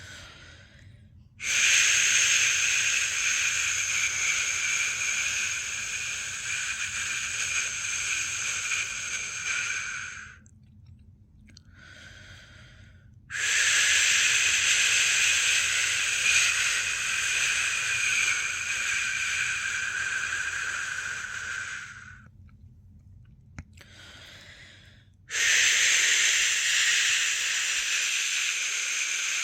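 A person's long 'shhh' shushing, a white-noise-like hiss used to settle a newborn to sleep. It comes in three long shushes of about eight to nine seconds each, with short, faint shushes in the pauses between them.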